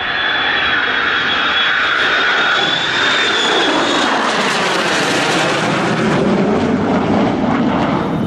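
Two fighter jets, an F-22 Raptor and an F-35A Lightning II, flying past together. A high jet whine as they approach gives way about four seconds in to a lower, deeper jet rumble as they pass and head away.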